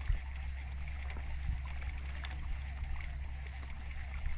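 Steady low rumble with an even hiss and scattered faint ticks: the background sound on a small fishing boat on the water in the rain.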